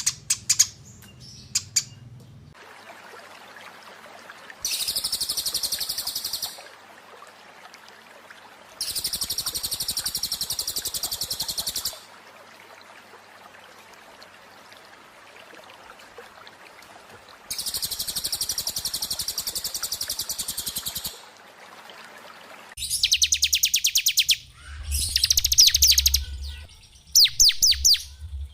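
Small songbird singing in high, fast, buzzy trills of about two to three seconds each, three of them with pauses between, followed near the end by quicker runs of sharp chirps.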